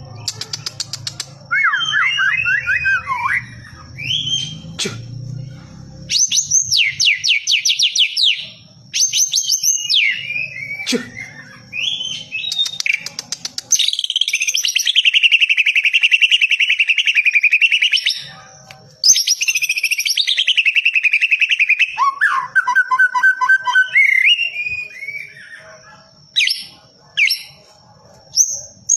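White-rumped shama singing a long, varied song of clear whistled phrases, fast trills and rapid runs of repeated notes, with a continuous warbling stretch in the middle.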